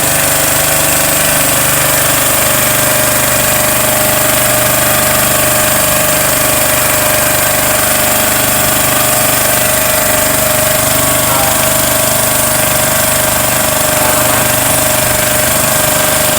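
Small wooden tour boat's engine running steadily at a constant speed, loud and close, with an even droning tone.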